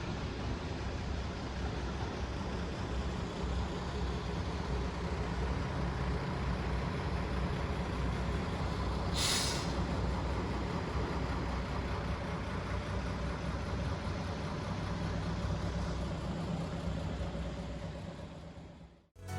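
Steady low rumble of an idling vehicle engine, with a short hiss of released air, like an air brake, about nine seconds in. The sound fades out just before the end.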